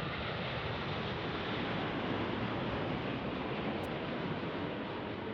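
Jet airliner's engines heard as a steady roar as the aircraft passes, swelling a little and then easing off.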